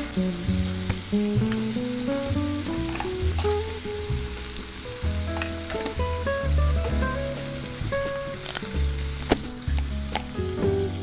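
Tuna, onions and chilli frying in an oiled pan with a steady sizzle and a few knocks and scrapes of a wooden spatula. Background music of held, stepping notes plays throughout, its bass notes the loudest part.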